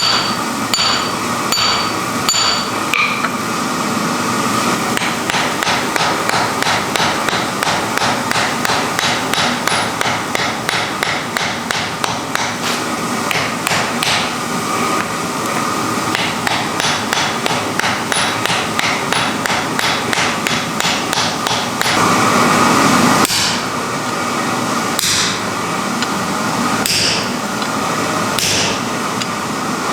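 Forging hammer striking metal on an anvil: a few slow, ringing blows, then a long run of quick, even blows at about three a second, then scattered blows. A brief rushing noise comes in about 22 seconds in.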